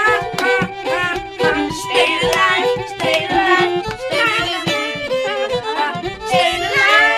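Lively fiddle music with a quick, steady rhythm of short notes, some of them sliding in pitch.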